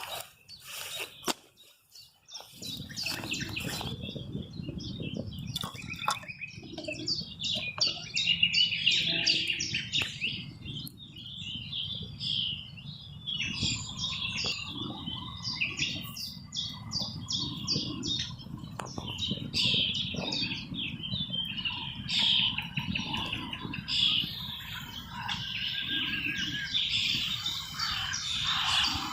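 Small birds chirping and singing, many short repeated calls, over a steady low noise that sets in a couple of seconds in.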